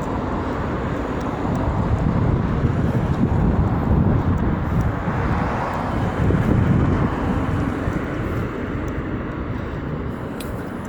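Outdoor low rumble, swelling over the first several seconds and easing off toward the end.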